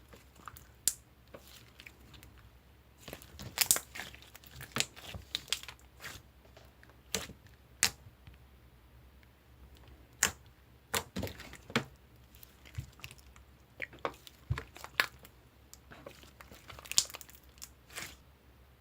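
Clear slime being squished and worked by hand, giving irregular sharp clicks and crackling pops, some in quick clusters.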